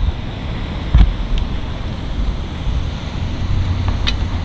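Wind buffeting the microphone, a steady low rumble, with a sharp knock about a second in and a couple of faint clicks near the end.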